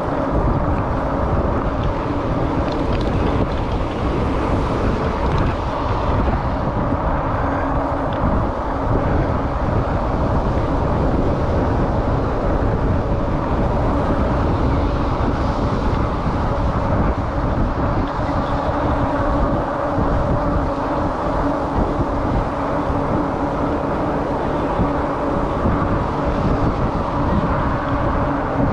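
Riding noise from a 2018 Rad Rover e-bike, picked up by a chest-mounted GoPro: wind buffeting the camera, with a steady hum under it.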